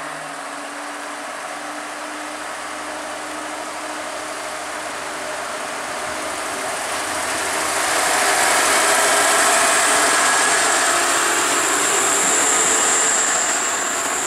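Class 628 diesel multiple unit pulling away from the platform and running past close by. Its engine hum and running noise build gradually, then grow much louder at about eight seconds as the railcar draws level. A high steady whine strengthens over the last few seconds.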